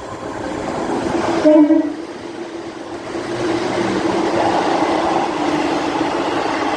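ScotRail Class 170 Turbostar diesel multiple unit passing through the station, growing louder as it comes in. It gives one short horn blast about a second and a half in. A thin, very high whine joins in the second half.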